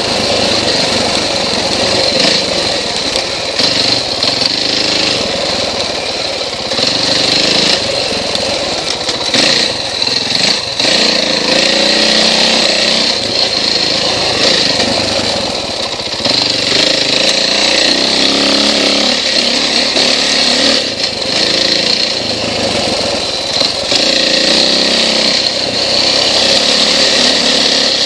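KTM XC-W off-road motorcycle engine running hard under way, its pitch rising and falling as the rider works the throttle, with short dips where it eases off.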